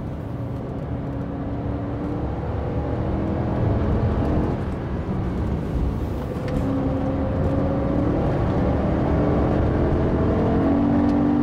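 BMW M3 engine heard from inside the cabin while it is driven hard on a circuit, over steady tyre and road noise. Its pitch and loudness climb through the second half as the car accelerates.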